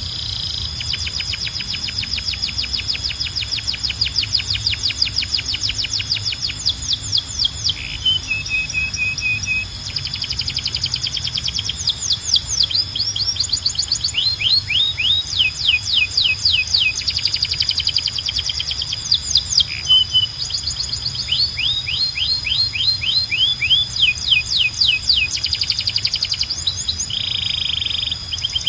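Canary singing: long rapid trills of repeated falling notes, switching from one trill to another every few seconds, with a couple of short flat whistles between them.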